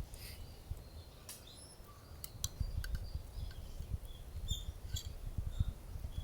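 Small birds chirping in short high notes, with scattered sharp crackling clicks and an irregular low rumble that gets louder about halfway through.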